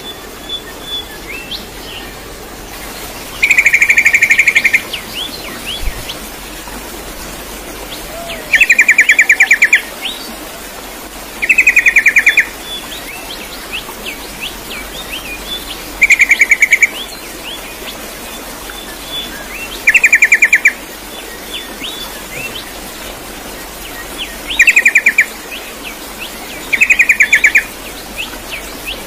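Bird song: seven loud, rapid, evenly pulsed trills, each about a second long and spaced a few seconds apart, with short quick chirps in between.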